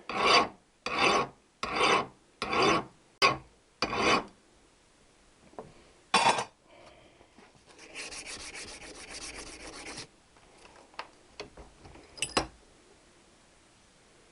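Hand file rasping across the steel end of a Triumph T120R kickstart lever in about eight even strokes, roughly two a second, taking down a high spot that made the kickstart stiff to come off. A single further stroke follows, then a softer rapid scratching for a couple of seconds and a few light clicks.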